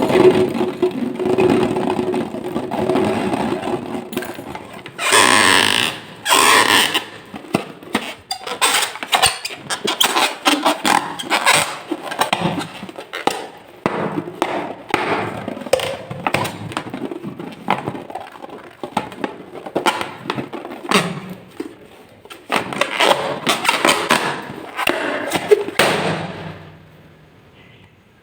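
Slime being squeezed and worked by hand: irregular sticky crackles, clicks and squelches, with a few louder wet bursts. It dies away near the end.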